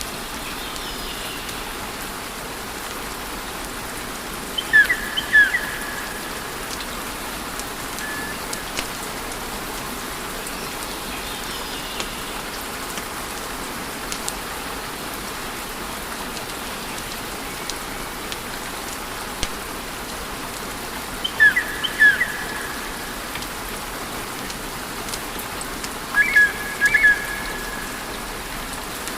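Wood fire burning with a steady hiss and scattered faint crackles. Three times, short high chirping notes stand out above it.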